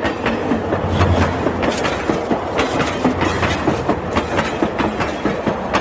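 Train sound effect: a train running on rails, its wheels clattering over the rail joints in a continuous clickety-clack.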